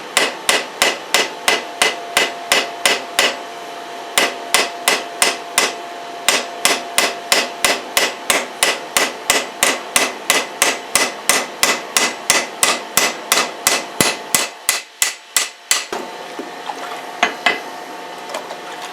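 Hammer striking hot leaf-spring steel on an anvil in a steady rhythm of about three blows a second, forging a knife blade. The blows pause briefly near the start and stop about three seconds before the end, followed by a few scattered lighter strikes.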